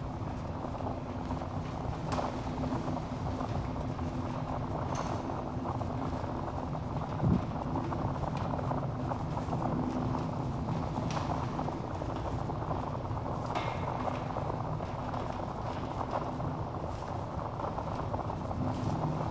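Log fire burning in a fireplace: a steady low hiss of flames with scattered sharp crackles and pops, and one louder dull knock about seven seconds in.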